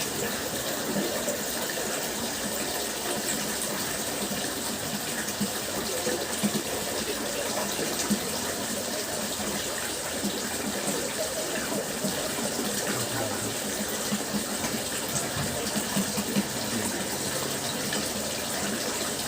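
Water fountain splashing and gushing steadily.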